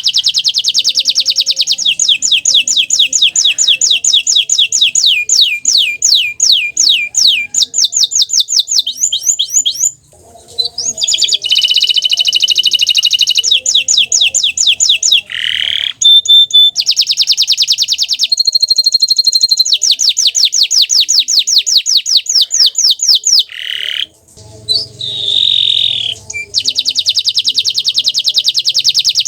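Bottle-green domestic canary singing loudly in long runs of fast trills and rolls, breaking off briefly about ten seconds in and again about twenty-four seconds in.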